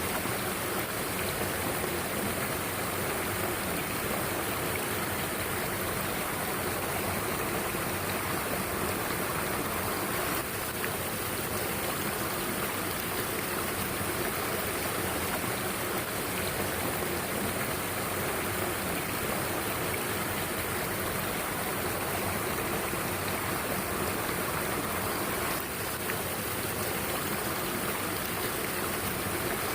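Mountain stream water rushing steadily, a continuous wash of flowing water.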